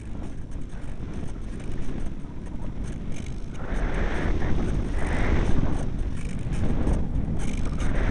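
Strong wind buffeting the microphone, rising in gusts partway through.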